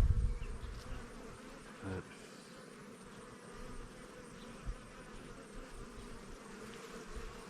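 Honeybees buzzing around an opened hive in a steady hum, from a colony that is irritated by the inspection. A low rumble at the start fades within the first second.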